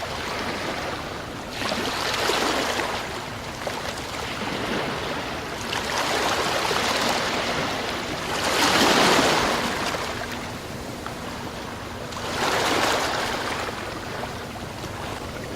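Sea waves breaking and washing up the shore, the rush rising and falling in several surges, the loudest about nine seconds in.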